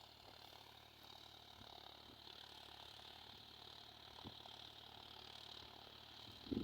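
Near silence: faint steady background hiss, with one faint click about four seconds in.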